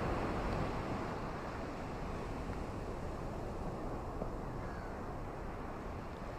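Steady, even rushing of ocean surf and rain, a continuous wash of noise without distinct wave breaks or bird calls.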